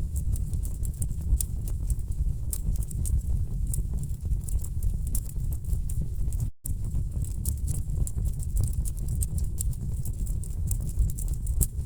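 Wood fire burning in a fireplace: a low steady rumble of flames with dense, irregular crackles and pops from the logs. The sound cuts out for an instant a little past halfway.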